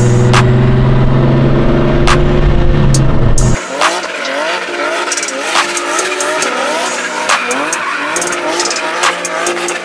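Turbocharged S52 straight-six of a BMW E36 M3 held at high revs, then revving up and down over and over as its rear tyres spin and squeal in donuts. Sharp cracks come through now and then, and the sound drops in level a few seconds in.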